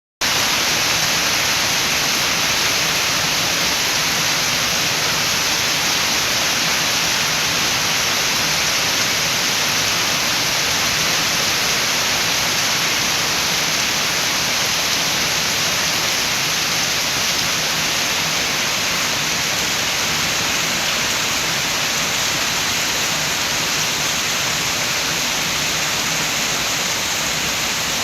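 Steady rain with wind: an even, unbroken hiss of falling rain.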